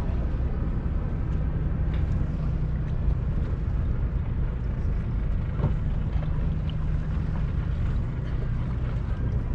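Sailboat's auxiliary engine running at a steady drone while motor-sailing, with the rush of wind and water around the boat.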